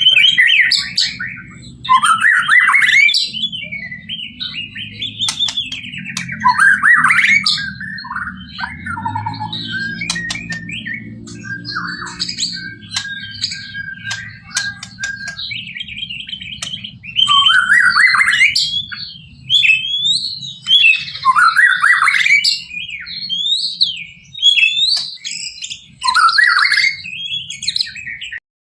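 White-rumped shama (murai batu) singing a full-isian song of varied whistled phrases, many mimicked from other birds, with rising and falling notes in loud bouts broken by short pauses. A low steady hum runs underneath.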